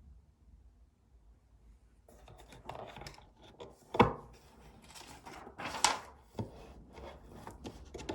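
Things being handled on a desk: rustling and scraping with a few sharp knocks, the loudest about four seconds in and another near six seconds.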